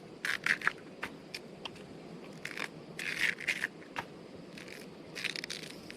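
Food being handled and scraped during cooking preparation: three short bursts of scraping and crackling, about a second in, around three seconds in and near the end, with scattered small clicks between.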